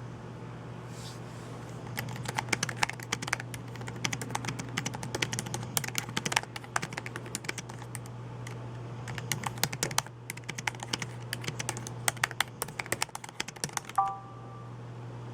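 Fast typing on a computer keyboard, rapid key clacks in bursts with a short pause partway through. A brief electronic tone sounds near the end, over a steady low hum.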